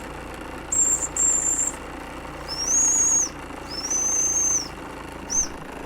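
Steam whistle on a small live-steam stationary engine blown in five short high-pitched blasts, the first two higher in pitch than the last three, over the engines' steady running.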